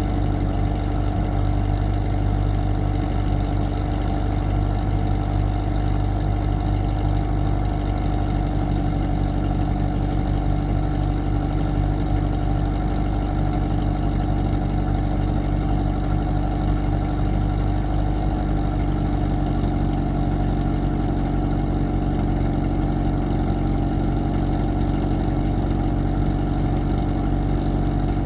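A 1991 Pontiac Sunbird's GM four-cylinder engine idling steadily in freezing weather, still warming up shortly after a cold start. The idle note shifts a little about two-thirds of the way through.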